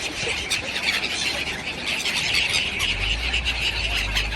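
A large flock of birds calling together: a dense, steady chatter of many overlapping high-pitched calls. A low rumble joins in about three seconds in.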